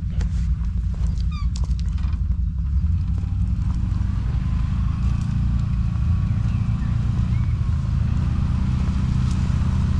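ATV engine running steadily at low revs, with a few clicks and knocks in the first couple of seconds.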